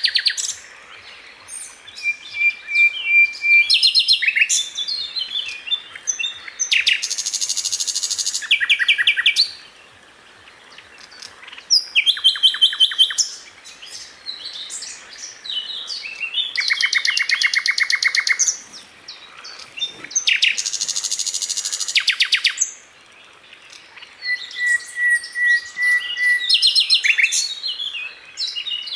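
A sikatan londo flycatcher singing in varied phrases: several bursts of very fast, rapid-fire repeated notes, two long steady whistled notes, and assorted chirps between, with short pauses.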